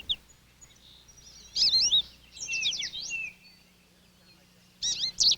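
Small songbirds chirping: a quick run of high, up-and-down notes, a second cluster of falling notes just after, then more rapid chirps near the end.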